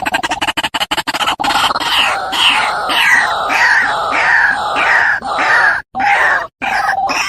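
White-breasted waterhen calling: a fast run of clipped pulses for about the first second, then a steady series of loud 'ru-wak' croaks, about two to three a second. The calls cut out sharply twice for a moment near the end.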